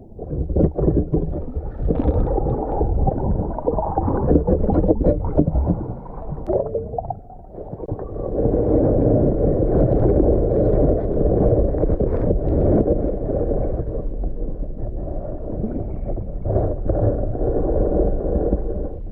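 Sea water sloshing and gurgling, heard muffled around a freediver's camera in the water. It is loud and choppy at first, dips briefly about seven seconds in, then settles into a steadier rush.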